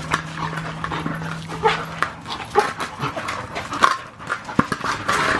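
A dog panting and giving short whines during rough play over a ball, amid scuffling and knocks.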